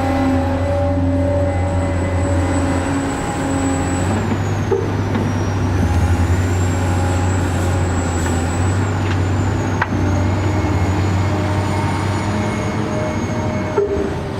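A motor running steadily with a low hum, under a high whine that dips in pitch about four seconds in and then rises again.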